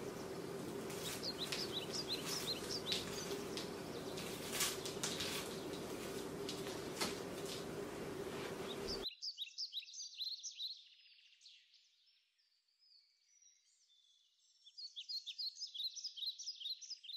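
Small birds chirping in quick short notes over a steady background hum. About nine seconds in, the hum drops out suddenly and only the chirping remains, thinning out and then picking up again near the end.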